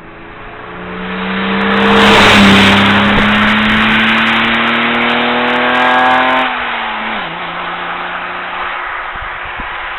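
Car engine running hard under load, its note climbing slowly for several seconds. About six and a half seconds in the note drops suddenly and settles at a lower, steady pitch.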